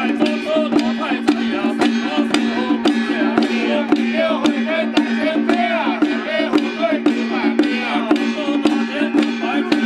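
Traditional temple procession music: a regular beat of sharp drum and percussion strikes over a sustained steady tone, with pitched melodic lines bending above it.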